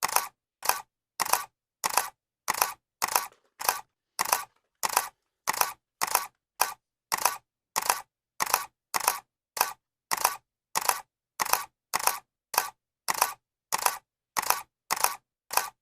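Camera shutter clicking over and over at an even pace, a bit under two clicks a second. Each click is a quick double snap.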